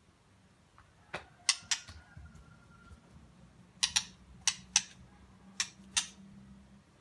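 Young songbird practising its song, giving short, sharp chip notes, several in quick pairs, with a faint thin whistle after the first few. A low steady hum runs underneath.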